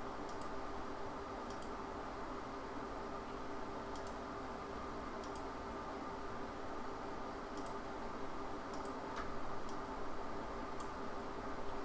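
Computer mouse clicking every second or two, each click a quick press and release, over a steady electrical hum.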